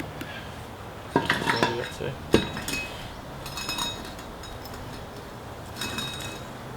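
Metal strut parts and tools clinking and clattering: a run of small clicks, a sharp knock about two and a half seconds in, and short metallic rings after it and again near the end.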